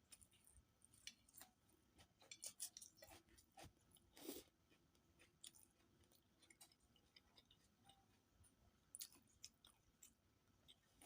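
Quiet close-up chewing and mouth sounds of someone eating rice with fish and egg curry: scattered small wet clicks and smacks, thickest about two to three seconds in.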